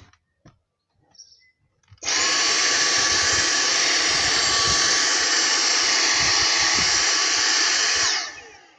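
Vacuum cleaner switched on after a few light clicks about two seconds in, running steadily with a high whine for about six seconds, then switched off and winding down with a falling pitch.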